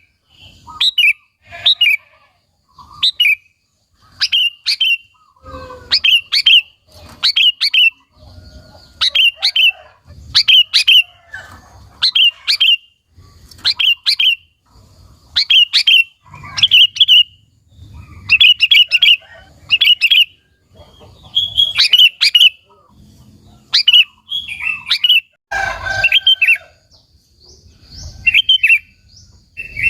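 Sooty-headed bulbul singing vigorously: short, bright chirping phrases repeated about once a second with brief pauses between them. A rougher, fuller call comes near the end.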